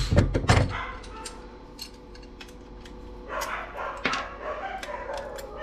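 Dogs barking, with two sharp knocks near the start and scattered light clicks of small parts being handled.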